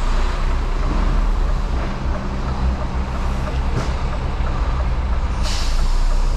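An articulated lorry's diesel engine running with a steady low hum. About five and a half seconds in there is a short hiss of air, as from the air brakes.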